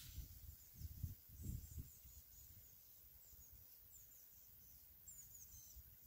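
Near silence outdoors, with faint, quick high chirps of small birds scattered throughout. A low irregular rumble fades out in the first two seconds.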